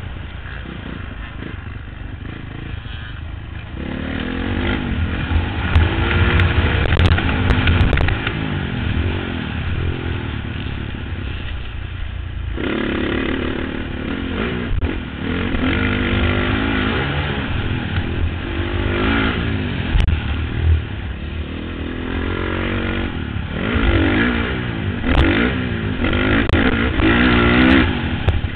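Motocross bike engine revving up and down repeatedly as it races around a dirt track, heard from a helmet-mounted camera, with a few sharp knocks along the way.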